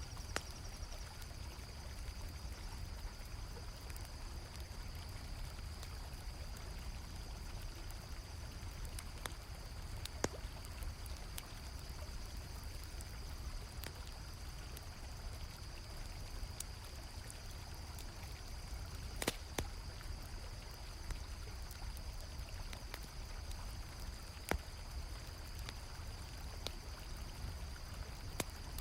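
River water flowing steadily, with a continuous high chirring of crickets and scattered sharp pops from a crackling campfire. The loudest pop comes about two-thirds of the way through.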